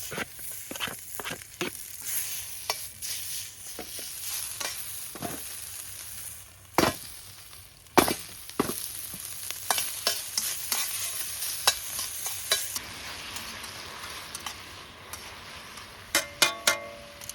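Food sizzling in a hot pan, with sharp clicks and scrapes of stirring. The sizzle drops to a softer hiss about thirteen seconds in, and a few short ringing metallic clinks come near the end.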